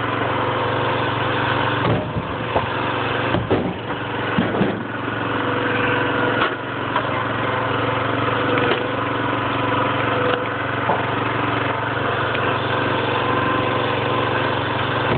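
Gas engine of a Huskee 22-ton log splitter running steadily. Sharp knocks and cracks come in a cluster around a few seconds in and a few more times later: oak splitting and pieces landing.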